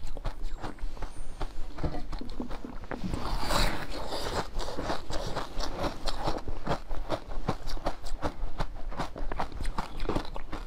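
Close-up chewing and biting of a soft pink food, with many quick wet mouth clicks and smacks; a louder, noisier stretch comes about three seconds in.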